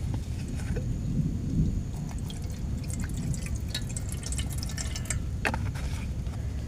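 Heavy rain drumming on a tent as a steady low rumble, with scattered sharp drips and ticks, swelling slightly about a second or two in.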